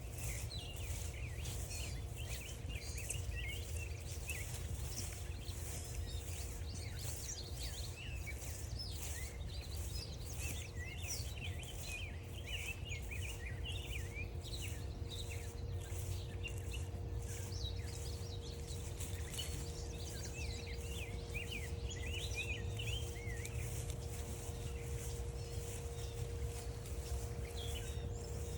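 Several songbirds chirping and trilling all through, over regular footsteps on the trail, a low steady rumble and a faint steady hum.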